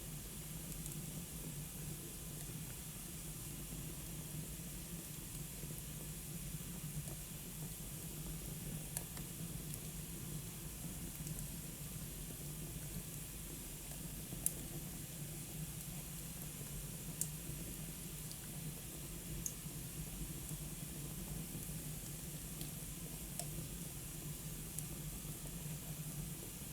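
Wood fire burning in a fireplace: a steady soft hiss with a sharp crackle or pop every few seconds.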